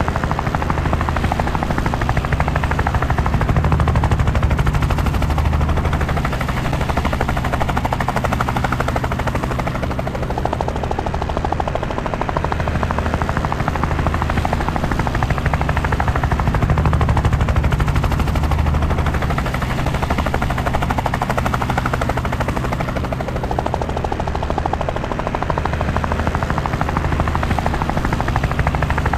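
Helicopter rotor and engine heard from aboard: a steady, rapid chop of the rotor blades over a low drone, swelling slightly every several seconds.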